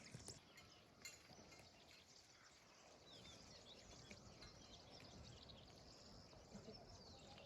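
Faint rural outdoor ambience with scattered faint, short bird chirps.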